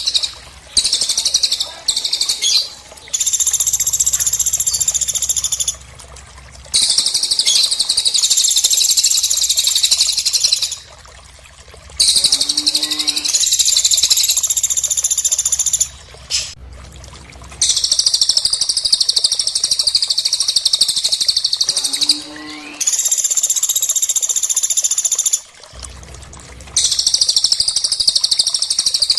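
Recorded song of small Indonesian cagebirds, cililin and pelatuk, played for masteran training. It comes as bursts of fast, high-pitched, chattering song lasting a few seconds each, with short pauses between them, over a low steady hum. Twice a brief lower-pitched call joins in.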